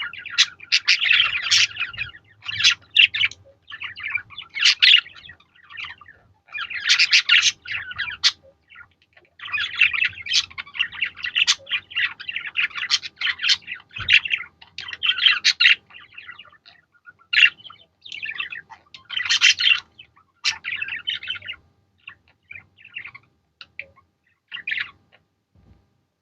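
Budgerigars chattering and chirping in quick, irregular clusters, thinning to a few scattered chirps over the last few seconds.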